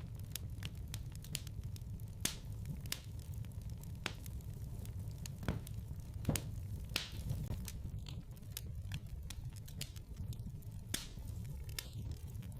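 Wood fire crackling in a fireplace: irregular sharp pops and snaps over a low, steady rumble, with a few louder pops scattered through.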